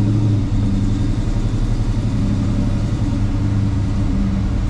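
Chevrolet 396 big-block V8 with dual exhaust running at a steady cruise, a low, even drone heard from inside the car's cabin.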